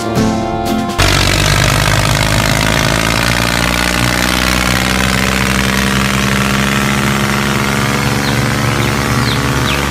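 Guitar music cuts off about a second in, and an engine then runs steadily at an even speed.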